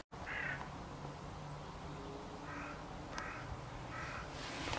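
A bird giving four short calls, spread a second or so apart.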